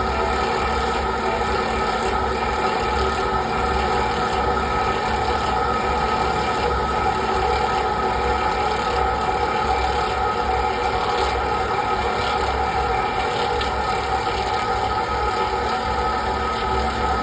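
Century-old steam-powered clog-copying lathe running at full power, its fast-spinning blade cutting the outside of a wooden clog: a steady machine drone with held tones, a pulsing low rumble and the rasp of wood being cut.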